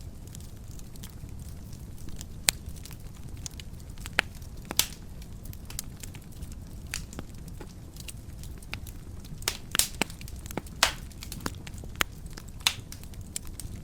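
Wood fire burning in a fireplace, crackling with irregular sharp pops over a low steady rumble of the flames; a cluster of louder pops comes near the ten-second mark.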